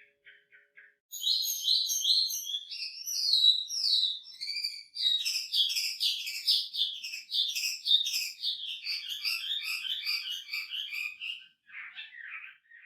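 Chinese hwamei singing a fast, varied song of short slurred whistled notes repeated in quick runs, phrase after phrase, after a few soft notes at the start.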